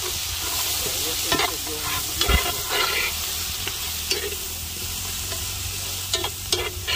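Food sizzling steadily in a hot pot, with a utensil scraping and knocking against the pot a handful of times as it is stirred.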